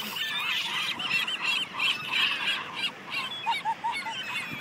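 A flock of gulls calling over one another: many short, overlapping cries, with a run of about five lower, shorter notes about three and a half seconds in.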